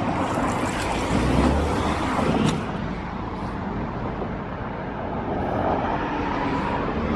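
Road traffic noise: a vehicle passes with a low rumble, loudest from about one to two and a half seconds in, then a steady traffic hum.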